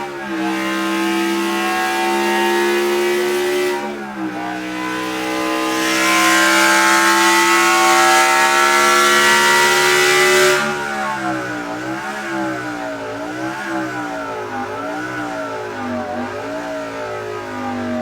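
Bugatti's new naturally aspirated V16 engine running at high revs. It holds steady, dips about four seconds in, climbs again to its loudest, then drops back about ten and a half seconds in to a run of quick blips, rising and falling about once a second.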